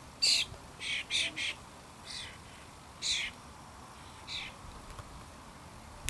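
A bird giving a series of short, harsh calls, about seven in all, three of them in quick succession around a second in and the rest spaced out.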